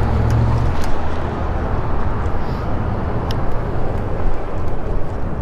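Steady rush of wind buffeting and road noise while riding an e-bike, with a few faint clicks.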